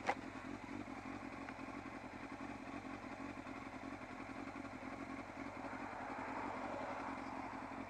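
Yamaha Fazer FZS600's inline four-cylinder engine idling steadily with the bike at a standstill, with a short knock right at the start.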